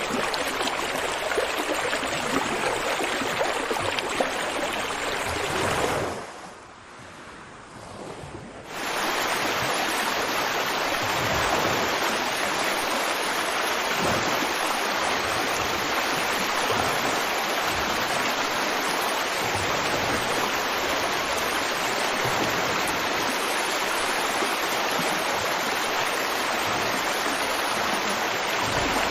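River water flowing steadily. About six seconds in the sound briefly drops much quieter for a couple of seconds, then returns at full level.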